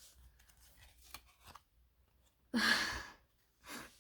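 A few faint clicks of trading cards being handled, then a short breathy sigh, a voiced start trailing off in under a second, with a smaller breath near the end.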